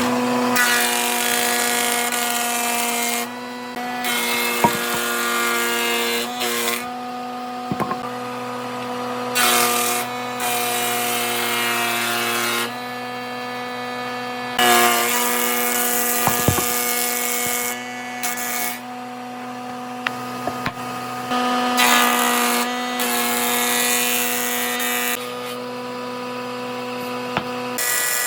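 Electric power tool's motor running at a steady pitch while it cuts or sands into wood in stretches of a few seconds, the rasping noise starting and stopping as the tool is pressed to and lifted from the wood.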